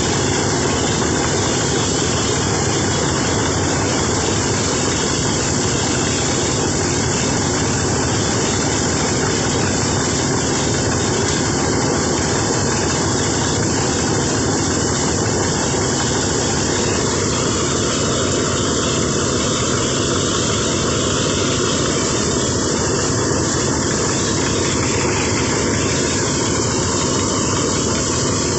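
Engine-driven rice thresher running steadily, a loud continuous mechanical noise.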